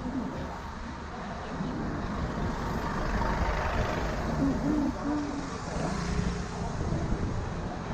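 Traffic on a city street with motor vehicles passing close by, heard from a moving bicycle; the noise swells as vehicles go past about three to four seconds in and again around six seconds.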